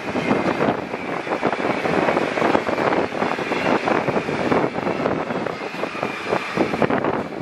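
Steady wheel-on-rail noise of a 25B passenger coach running at speed, with many quick clicks and wind buffeting the microphone at the open window.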